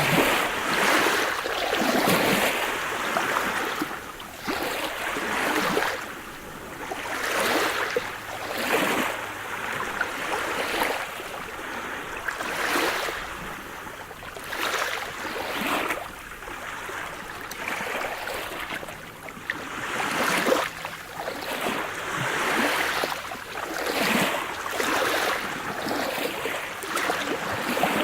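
Sea surf: waves washing and breaking on a shore in irregular surges every second or two, a steady hiss.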